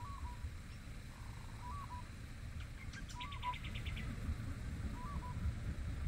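Wild birds calling: a short two-note call repeated every second or two, and a quick run of about eight high notes near the middle, over a steady low rumble.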